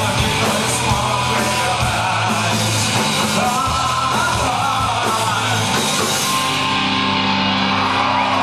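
Live punk rock band playing loud on electric guitar, bass and drums. About six and a half seconds in, the cymbals stop and held guitar and bass notes carry on.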